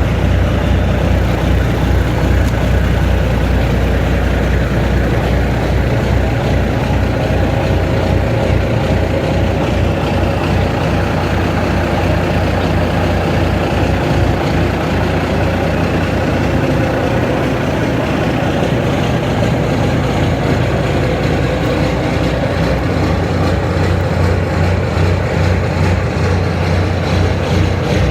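Caterpillar 3406E inline-six diesel in a Peterbilt truck running steadily after a cold start, a continuous low-pitched drone.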